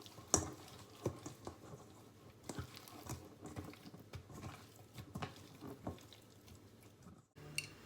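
Sliced venison loin being mixed with an oily marinade: faint wet squishing with scattered light clicks, the sharpest near the start.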